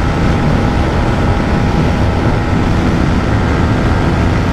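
Yamaha MT-15's 155 cc single-cylinder engine running steadily at high revs in sixth gear at about 130 km/h, near its top speed, with heavy wind rush on the microphone.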